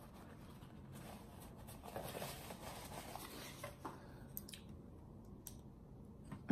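A person eating quietly: faint chewing and mouth sounds, with a napkin rubbed against the mouth at first. A few short wet clicks come near the end, as fingers are licked.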